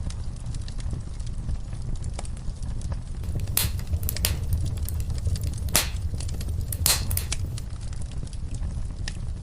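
Wood fire in a fireplace: a steady low rumble of flames with scattered crackles and a few sharp pops of burning logs, the loudest about midway.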